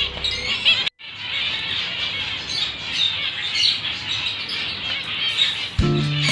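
Many small birds chirping and squawking together in a dense, continuous chatter, with a short break just under a second in. Music comes in near the end.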